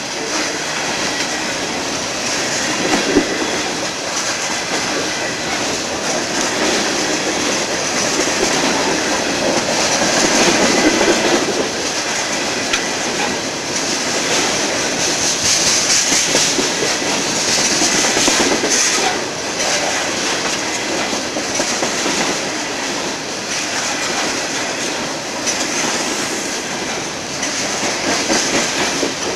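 Freight train of refrigerated boxcars rolling past close by: a steady, loud rumble and rattle of steel wheels on the rails.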